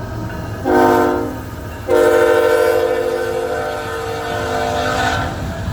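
Freight locomotive's air horn sounding a multi-note chord: a short blast, then a long blast of about three and a half seconds, the short-then-long close of a grade-crossing signal. The train's low rumble runs underneath.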